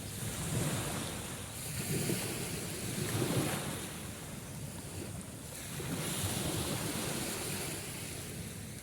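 Sea waves washing in, a steady rush of surf that swells and eases every second or two.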